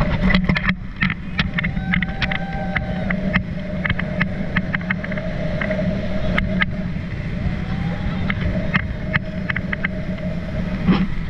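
Motorboat engine running steadily with a constant low hum, with many short clicks and knocks scattered over it.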